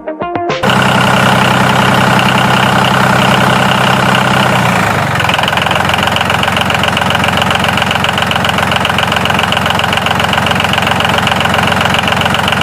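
Small electric motor of a homemade model flour mill running with a steady buzzing whine. Its sound changes about five seconds in.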